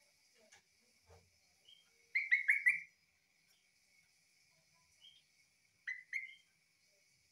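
Yellow-vented bulbul (trucukan) singing: a quick run of four sharp, falling chirps about two seconds in, then a pair of similar chirps near the end.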